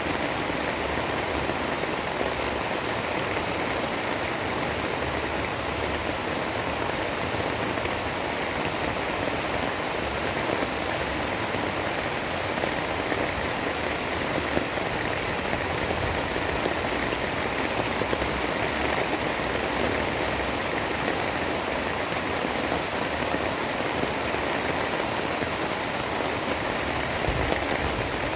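Steady rain: a continuous, even hiss with no pauses, in the style of a white-noise storm recording.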